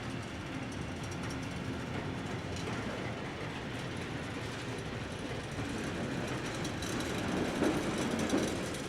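Freight train's wagons rolling past on the rails: a steady rumble, with two louder knocks near the end.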